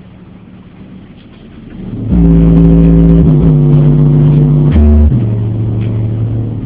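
Bass-heavy music played loud through a car audio system with a 12-inch JBL subwoofer. Low, sustained bass notes step between pitches, very loud from about two seconds in for about three seconds, then quieter.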